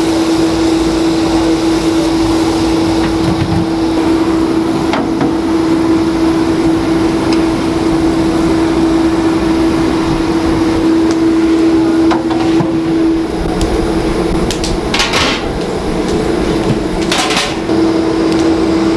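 A steady machine hum at one constant pitch, like a motor or fan running, over a noisy background. It cuts out about two-thirds of the way through and comes back near the end, with two short hissing bursts in between.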